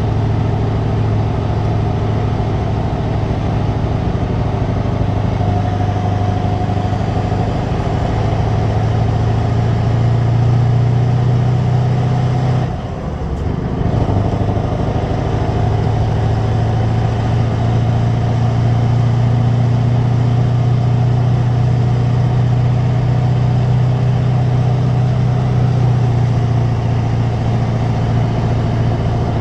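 Scania 164 480's V8 diesel running steadily through a straight exhaust, a constant low drone. The sound dips briefly about halfway through, then comes back as before.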